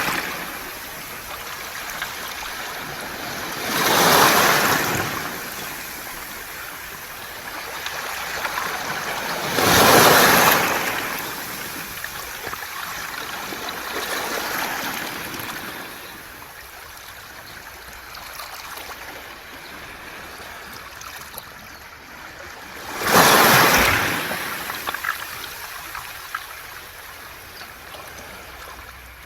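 Sea waves washing onto a beach of round pebbles: three loud surges break about 4, 10 and 23 seconds in, with a steady rush of water over the stones between them.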